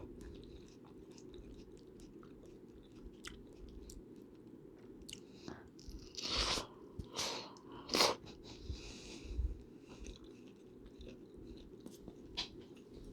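Close-miked eating: chewing and biting into food, with scattered short mouth clicks and a few louder bites, the loudest about six and a half and eight seconds in.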